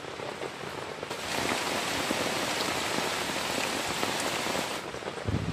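Heavy rain falling steadily, growing louder about a second in and easing back shortly before the end.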